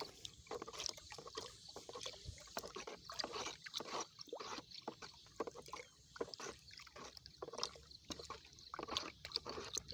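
Pesticide mixture being stirred in a bucket of water: faint, irregular sloshing and light knocking strokes, several a second.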